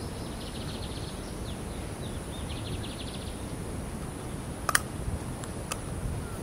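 Outdoor ambience with a steady background hiss. A small bird gives a rapid trill twice in the first three seconds, with a couple of short chirps between. Two sharp clicks come near the end, the first the loudest sound.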